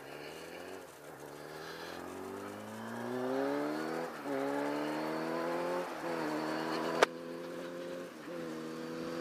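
Kawasaki ZXR750 H1's inline-four engine accelerating hard through the gears. The pitch climbs, then drops back at each of three upshifts. A single sharp click comes about seven seconds in.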